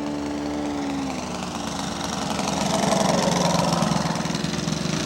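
Engine of a radio-controlled scale model airplane running through a touch-and-go. Its pitch drops about a second in as it throttles back, and it grows louder toward the middle as the plane passes closer.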